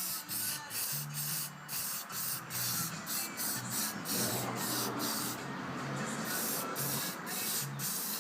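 Aerosol can of primer spraying in short repeated hissing bursts, about three a second, with background music.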